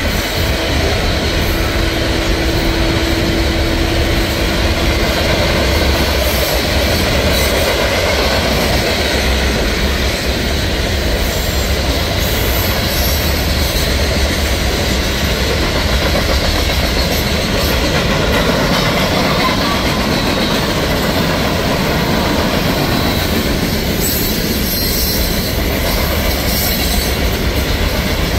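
Freight cars of a CSX mixed freight train (covered hoppers, tank cars and boxcars) rolling past at speed, a steady loud rumble of steel wheels on rail. A thin steady tone sounds over the rumble for the first few seconds.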